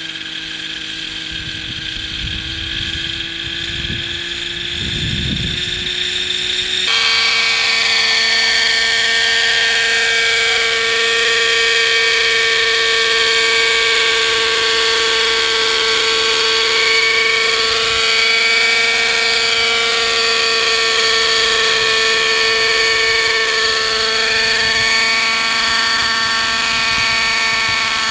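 A .50-size two-stroke nitro engine and rotors of a Hirobo Sceadu model helicopter running in flight with a steady high-pitched whine. About seven seconds in it turns suddenly louder and higher in pitch, then holds steady. Its revs run lower than they should because the fuel mixture is off, as the owner notes.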